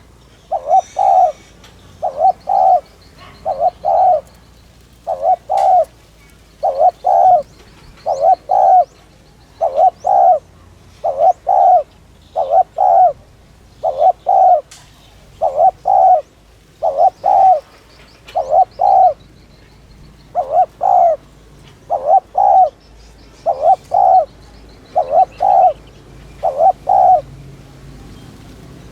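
Spotted dove cooing in a fast, steady series of two-note coos, about one pair a second. This is the rapid 'thúc' coo that keepers play to stir up and train decoy doves. Faint high chirps from small birds run underneath.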